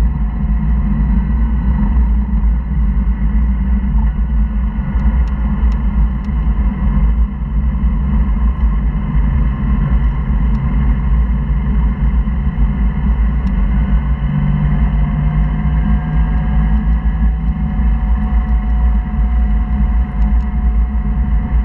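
Porsche flat-six engine and road noise inside the cabin of a car driven at speed on a track: a loud, steady low drone whose engine pitch drifts up and down with the throttle, with a few faint ticks.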